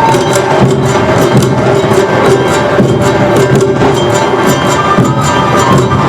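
Awa Odori festival music: a bamboo flute plays held, high melody notes over a steady, driving rhythm of drums and percussion.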